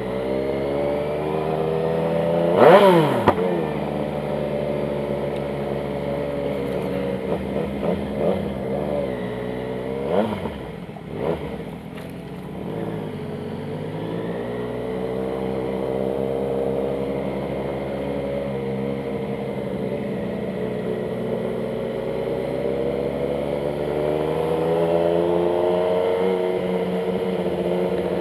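Yamaha MT-09's inline-three engine running at low speed, its pitch wavering as it rolls along. There is a sharp rev blip about three seconds in and a few shorter blips between eight and eleven seconds in, then the revs climb gradually toward the end.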